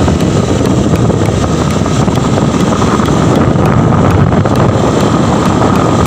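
Motorcycle riding, with wind rushing loudly over the microphone and the engine running underneath in a steady rumble.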